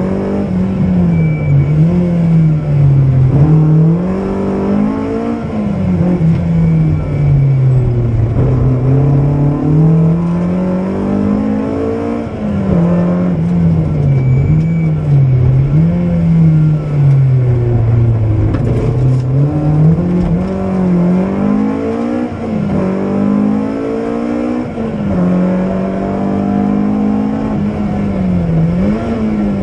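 BMW M3 rally car's engine heard from inside the cabin, accelerating hard and easing off again and again. Its pitch climbs, drops back at each gear change or lift, and climbs again.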